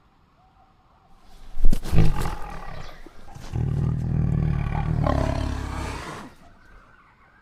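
Tiger roaring: a sudden loud snarl about a second and a half in, then one long, low roar lasting nearly three seconds that fades out about six seconds in.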